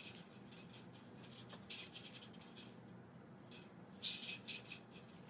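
A rattle or jingle shaken by hand as a foley effect, in several short bursts of bright rattling. The bursts are loudest right at the start and again about four seconds in.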